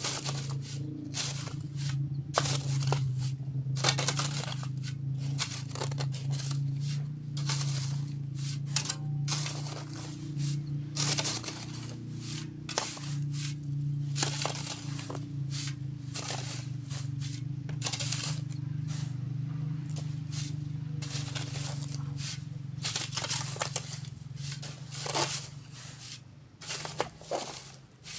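Shovels scraping and sand being thrown and sifted, heard as a run of irregular gritty scrapes and impacts, over a steady low engine drone that fades out about two-thirds of the way through.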